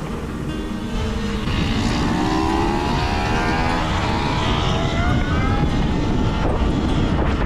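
Electric motor whine of a Talaria electric supermoto climbing steadily in pitch as the bike accelerates, over heavy low rumble of wind on the microphone.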